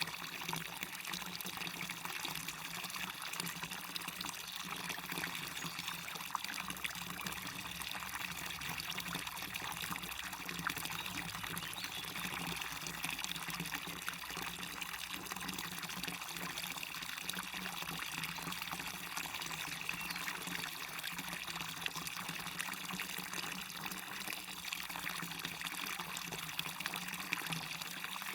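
Waterfall pouring steadily: a constant rush of falling water with small splashes scattered through it.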